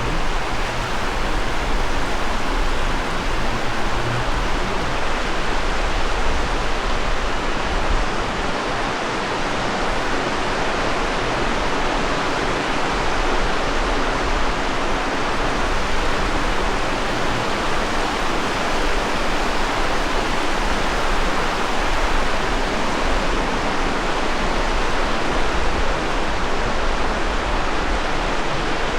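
Steady rushing noise of ocean surf on the beach, mixed with wind buffeting the microphone as a low rumble.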